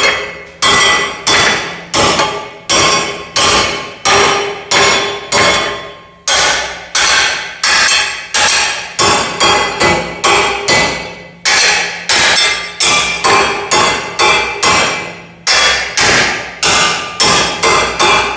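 Hammer striking a metal bar held in a vise, bending it round a round-bar former. It is a steady run of ringing metal-on-metal blows, about two a second, with a few brief pauses.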